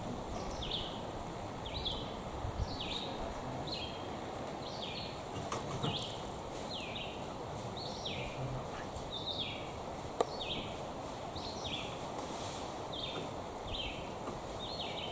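Outdoor ambience with a bird calling over and over: short falling chirps, about one and a half a second. One sharp click about ten seconds in.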